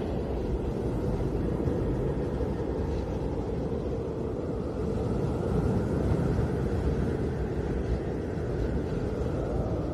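Snowstorm wind blowing steadily with a deep rumble; a gust brings up a higher whistling tone in the middle that fades near the end.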